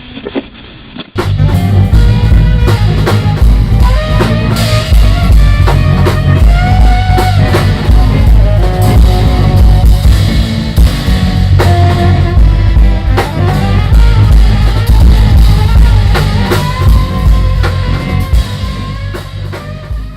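Band music with drum kit, bass and guitar in a rock style. About a second in it cuts abruptly from a quieter, duller passage to a loud, full passage with a heavy bass, and it eases off near the end.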